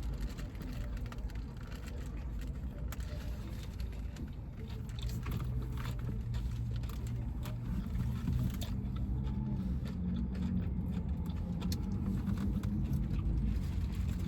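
Eating sounds: small clicks and rustles of chewing and handling food and wrappers over a steady low rumble.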